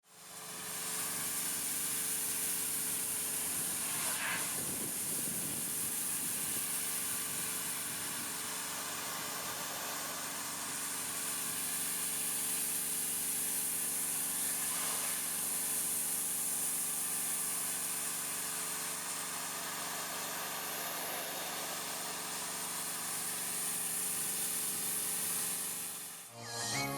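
Pressure washer running: a steady engine hum under the loud hiss of the water spray. It cuts off suddenly near the end.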